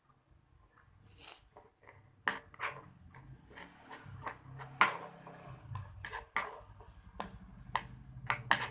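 A stirrer clicking, tapping and scraping against a small container while the slime mixture is mixed, with a few sharper knocks about five seconds in and near the end.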